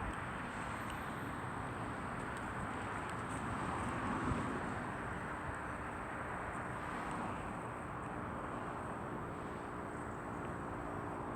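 Steady outdoor background noise with a dull thud about four seconds in and a faint low hum later on.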